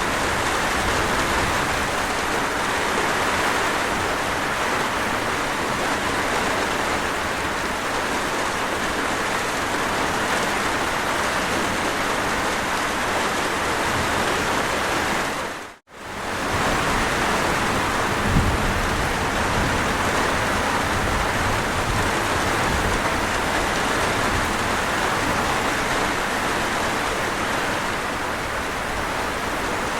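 Steady heavy rain falling, an even hiss. About halfway through it fades out to near silence and straight back in, and a single low thump sounds a couple of seconds later.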